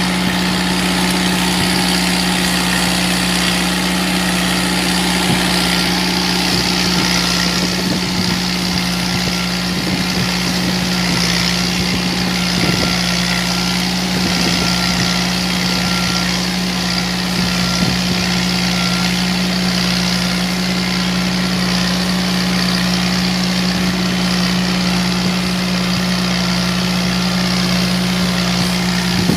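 New Holland tractor's diesel engine running steadily at constant revs, one deep unchanging engine note with no revving.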